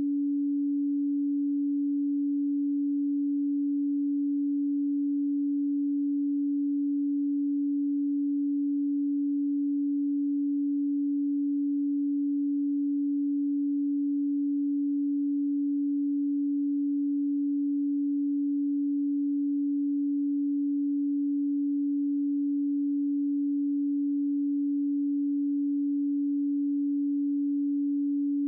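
A pure 285 Hz sine tone held steady and unchanging, a single low hum with no other sound.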